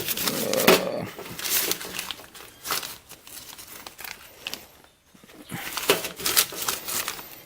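Crinkling and rustling of packaging with small clatters, as someone rummages through parts stock looking for a replacement engine head gasket.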